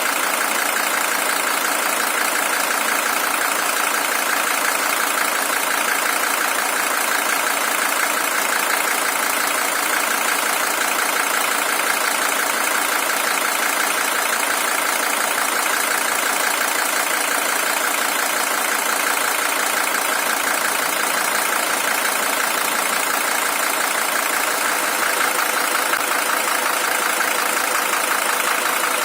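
Mercedes-Benz OM617 five-cylinder diesel engine in a W123 300TD, idling steadily at an even, unchanging level. It is the original engine, with 620,000 km on it.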